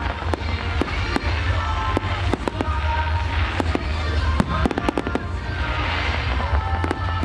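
Fireworks display going off in many sharp, irregular bangs and crackles, with music playing over loudspeakers at the far end of the park.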